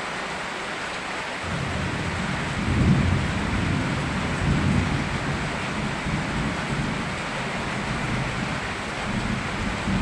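Steady rain with a low rumble of thunder that sets in about a second and a half in, swells around three seconds in, and rolls on until near the end.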